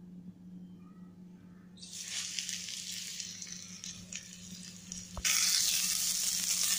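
Semolina-coated chicken keema patties sizzling and crackling as they shallow-fry in oil in a nonstick pan. The sizzle starts about two seconds in and grows suddenly louder about five seconds in; before it only a faint steady hum is heard.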